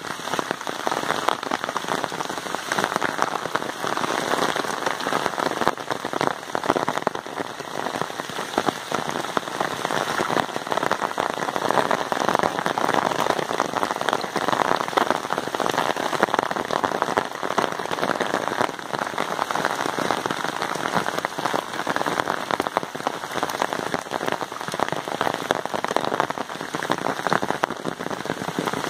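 Heavy monsoon rain falling steadily: a dense, even patter of countless drops.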